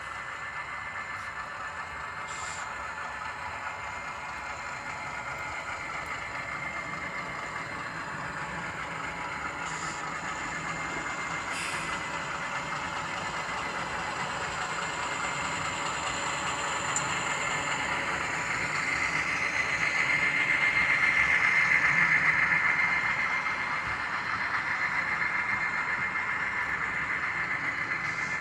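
HO scale model train running along the track, its motor and wheels humming steadily. It grows slowly louder, is loudest about three quarters of the way in, then eases off, as if passing close by.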